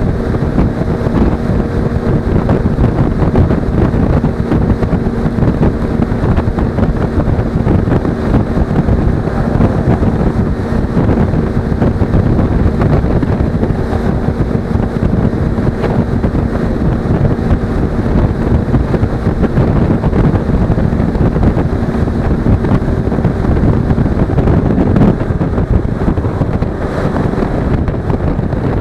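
Wind buffeting on an SJ4000 action camera's microphone while riding a Suzuki V-Strom 250, with the bike's parallel-twin engine droning steadily underneath. The engine tone drops back a few seconds before the end.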